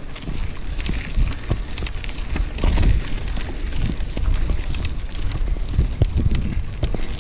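Wind rumbling on the microphone of a bicycle being ridden over a rough dirt track, with scattered crackles and clicks from the tyres and bike.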